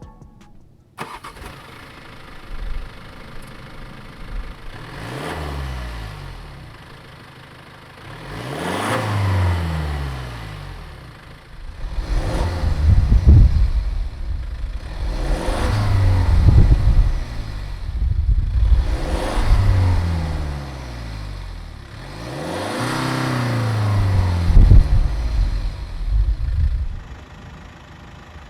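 BMW 118d's 2.0-litre four-cylinder diesel engine idling and being revved again and again, each rev rising and falling back in pitch, about six times.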